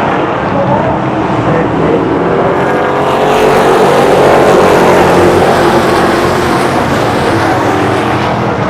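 Street stock race cars' engines running at speed on a short oval, growing louder from about three seconds in as the pack passes, with pitch bending down, then easing off.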